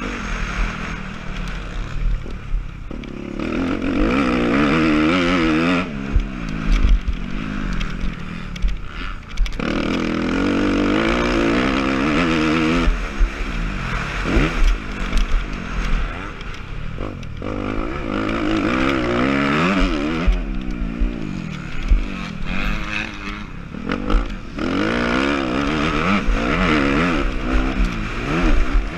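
Motocross bike's single-cylinder engine racing on the track, revs climbing and dropping again and again as it is throttled hard and then backed off, with rattling and clatter.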